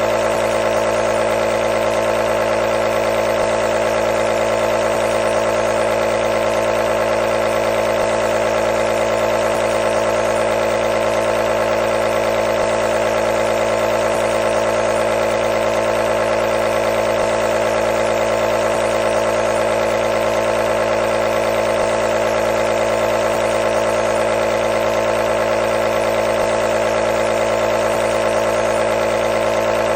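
Medical nebulizer's compressor running, a loud steady buzzing hum that doesn't change in pitch or level, with a hiss of air over it.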